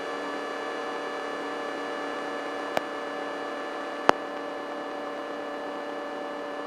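Steady hum with many overtones, as heard over aircraft intercom audio, with two short clicks about three and four seconds in.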